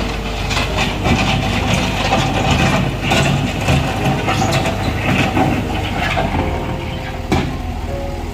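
TCM bulldozer's diesel engine running steadily, with irregular metallic clanking and scraping throughout and a sharp knock about seven seconds in.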